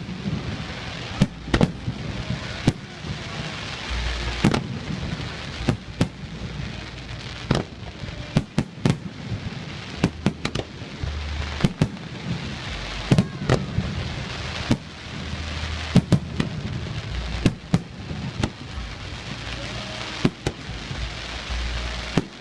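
Aerial fireworks bursting in a continuous irregular run of sharp bangs, one to three a second, with deep rumbling booms and crackle between them.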